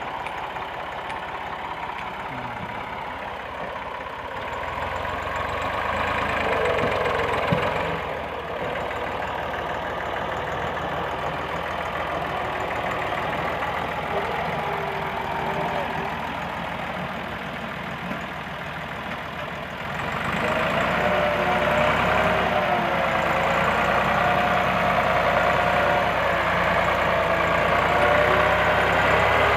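Tractor diesel engine running steadily. It gets louder for a few seconds early on and again from about twenty seconds in, when a wavering higher tone joins it.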